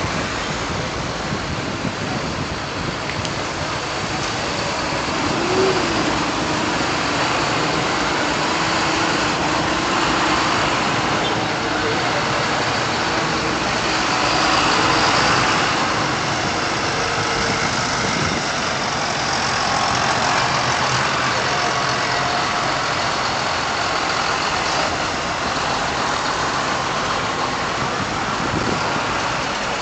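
Vintage tractor engines running and idling together, a steady mixed engine noise that swells slightly about halfway through.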